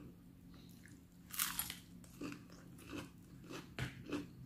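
Close-up eating sounds of crispy reheated fried chicken: one loud crunch about a second and a half in, then several softer crunches and wet chewing.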